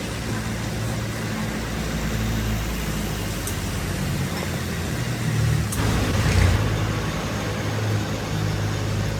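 A motor engine running steadily with a low hum, and a brief burst of rushing noise about six seconds in.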